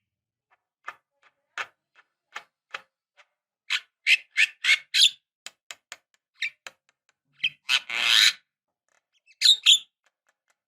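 Javan myna calling in short separate notes: soft ticking notes at first, then a quick run of five loud, high calls about four seconds in. A longer harsh, noisy call comes around eight seconds, and two more loud calls come near the end.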